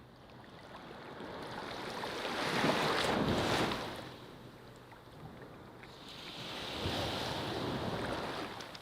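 Ocean waves breaking and washing up on a beach, in two swells of surf: the first peaks about three seconds in and fades, the next builds from about six seconds in and stops suddenly near the end.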